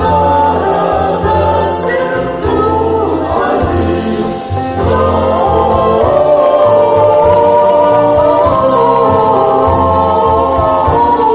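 A choir singing with musical accompaniment: several voices holding long, shifting notes over a steady low bass.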